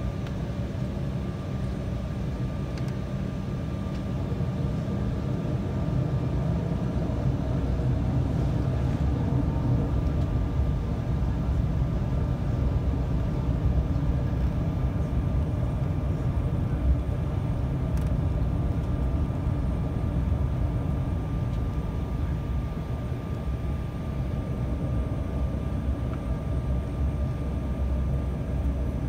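Cabin noise inside an Embraer 195 jet on the ground: the steady hum of its GE CF34 turbofan engines over a low rumble, with a faint steady whine. The level rises a little a few seconds in and then holds, with no surge of a takeoff roll.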